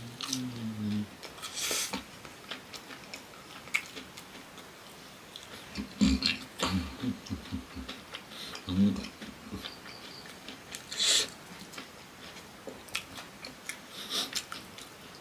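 Close-miked chewing of fried cassava with chili sambal: soft wet mouth clicks and crackles, broken by a few short hummed sounds and a brief hiss of breath near the end.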